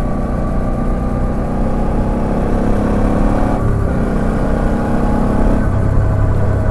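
Suzuki V-Strom 650XT's V-twin engine running under way, its note breaking and resettling briefly about three and a half seconds in.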